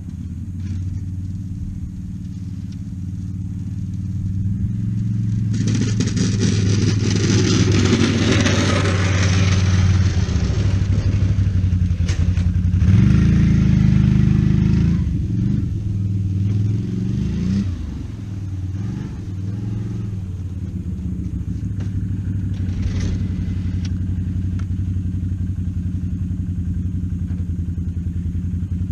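Motor vehicle engine running steadily. A stretch of rushing, scraping noise comes in a few seconds in, the revs rise briefly about halfway through, and the engine then settles back to a steady idle.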